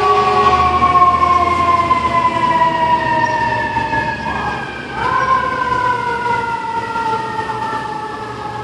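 A fire truck's mechanical siren winding down, its wail falling slowly in pitch; about five seconds in it is briefly spun up again and the pitch jumps back up before falling away once more.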